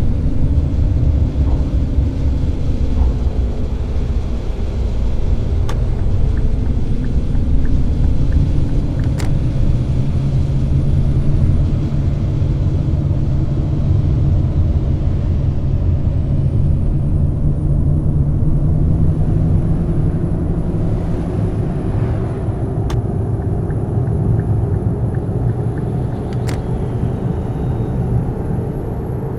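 Scania K420 double-decker coach driving along, its diesel engine and road noise making a loud, steady rumble whose engine note rises and falls slowly. A faint high whine runs through it, with a few sharp clicks.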